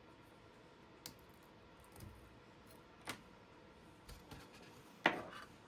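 A few light clicks and knocks from hands handling power cables and a 3D-printed plastic miner stand, the loudest about five seconds in.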